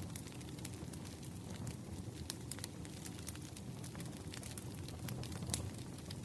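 Campfire burning: a steady low rush with frequent, irregular sharp crackles and pops.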